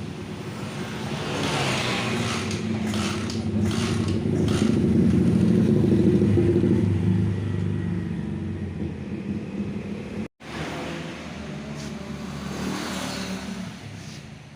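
Honda GL Max motorcycle engine running, revved up and then eased back down. The sound drops out for an instant about ten seconds in.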